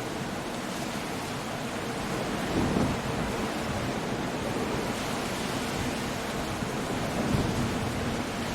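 Coastal storm: a steady rush of wind, rain and surf breaking against cliffs, with a low surge about two and a half seconds in and another near the end.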